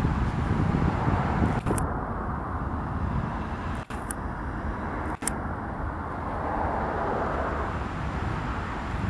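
Distant diesel-electric freight locomotives running, a steady low rumble that cuts out for an instant twice midway.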